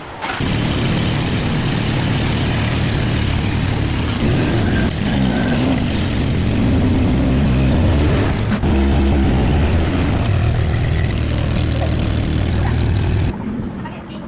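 Car engine running steadily, starting just after the beginning and cutting off sharply about a second before the end.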